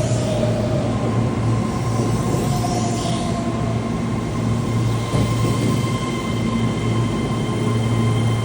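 Keihan electric train running through the station: a steady rumble with a low hum, and a steady high whine in several pitches that sets in about a second in, with more pitches joining around five seconds in.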